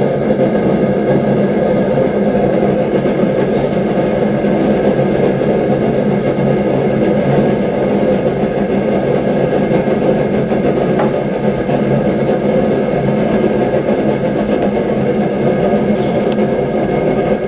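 Forge running steadily with a constant hum, heating a steel knife blade through to a uniform temperature before the quench.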